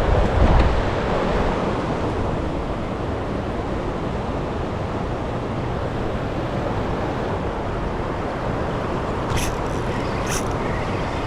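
Steady rushing noise of turbulent water in a dam's tailwater current, mixed with wind on the microphone. Two short, high clicks near the end.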